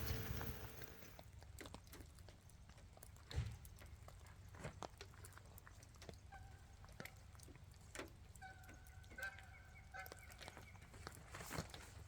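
Quiet night ambience with scattered faint ticks and taps and one louder knock about three seconds in, and short repeated animal calls, a few notes about six seconds in and a quicker run from about eight and a half to ten seconds.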